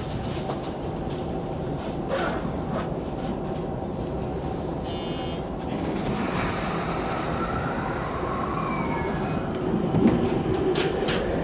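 Sagami Railway 10000 series electric train running along the line: a steady rumble of wheels on rails, with a few clacks over rail joints.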